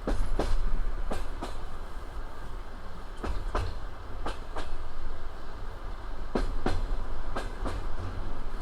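Passenger train wheels knocking over rail joints at low speed, over a steady low rumble. The knocks come in pairs about a third of a second apart, the pairs about a second apart, with longer gaps between groups.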